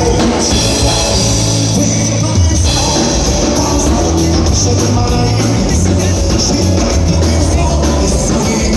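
Live band playing gaúcho dance music at full volume, with steady bass and drums keeping a regular beat.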